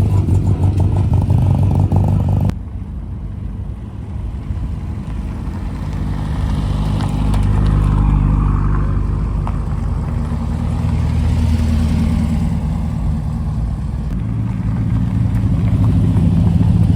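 Car engines running low and slow, a deep steady rumble that swells and fades as vehicles move past, with an abrupt change in the sound about two and a half seconds in.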